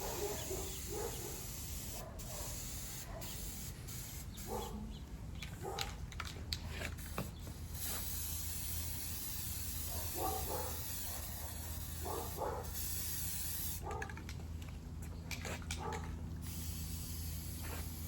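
Aerosol spray can hissing in long passes, with breaks about five seconds in and again near the end. Short mid-pitched sounds come and go throughout.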